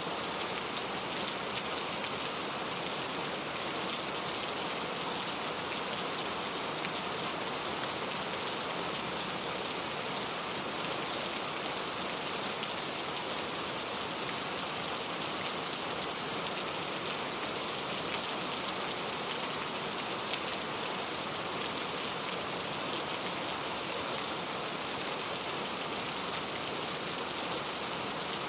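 Steady rainfall with a constant hiss and the faint patter of individual drops.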